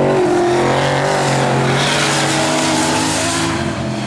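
Muscle race cars' engines running hard at racing speed, several engine notes at once, with a swell of noise about halfway through as a car goes by.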